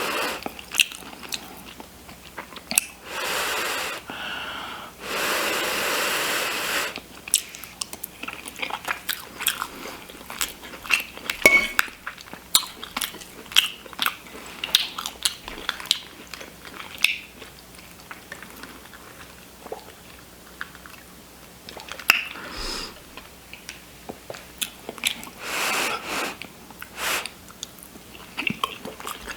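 Close-up chewing and mouth sounds of someone eating shepherd's pie, with many small wet clicks and smacks. A few breathy rushes, each a second or two long, break in.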